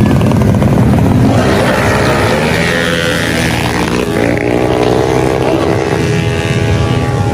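Tuned 155cc automatic scooter engines revving hard, the pitch sliding up and down.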